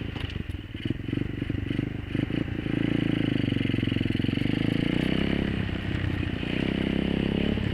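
Apollo 125cc dirt bike's single-cylinder four-stroke engine running as it is ridden, choppy with some knocks and rattles for the first couple of seconds, then pulling at a fairly steady pitch under throttle from about two and a half seconds in.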